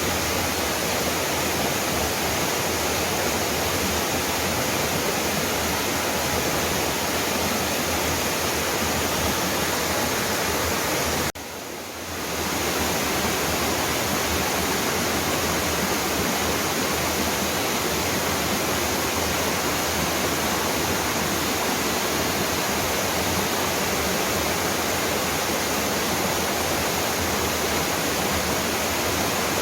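A waterfall's falling water making a steady, dense rush. About eleven seconds in it drops away sharply for a moment, then swells back to full.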